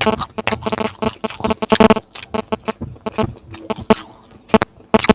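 Close-miked wet chewing and mouth smacks of someone eating soft food, as a rapid run of clicks that thins out after about two seconds.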